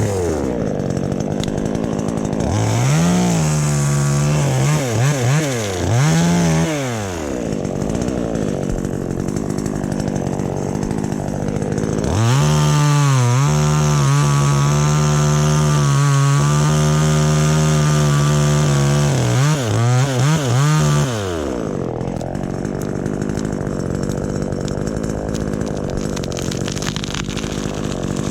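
Chainsaw engine blipped up and down a few times, held at high revs for about seven seconds midway, then blipped again and settled to a steady idle.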